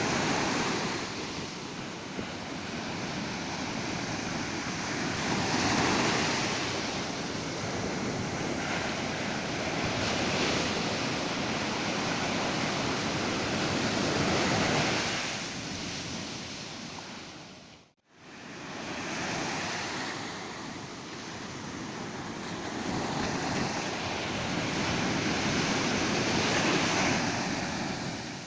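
Ocean surf washing onto a beach, a steady rush of noise that swells and falls every four to six seconds. About two-thirds of the way through it fades out to silence and straight back in.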